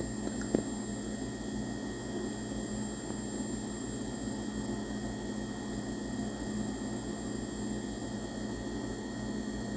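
Steady low hum and hiss with faint constant tones, unchanging throughout, and one faint click about half a second in.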